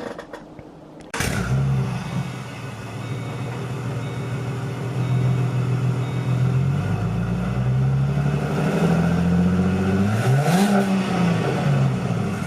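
A 4.0-litre V6 Ford Mustang engine running through an aftermarket exhaust. It comes in suddenly about a second in, idles with small rises in speed, and is blipped once near the end, its pitch rising and falling back.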